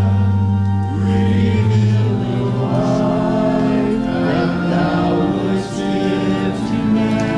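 A hymn sung by a group of voices over a sustained accompaniment, with long-held chords and a steady bass line.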